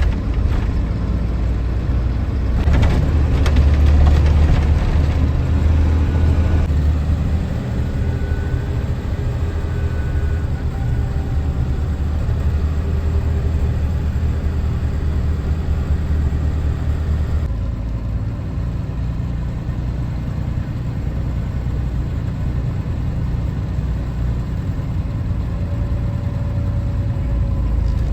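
Box truck driving, with a steady low engine and road rumble. The rumble changes abruptly about seven seconds in and again about seventeen seconds in.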